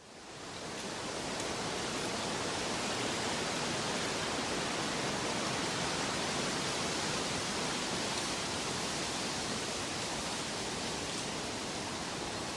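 Steady rushing of water, an even hiss with no rhythm, fading in over about the first second.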